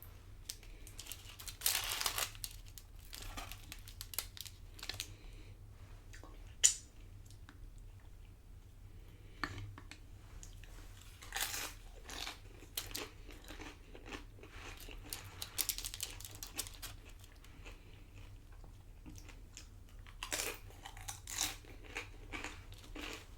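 Close-up chewing and crunching of loaded nachos, tortilla chips crackling in bouts of bites every few seconds with quieter chewing between. A single sharp click about a third of the way in.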